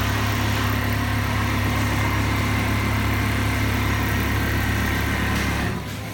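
Automatic industrial pattern sewing machine running with a steady motor hum, which stops shortly before the end.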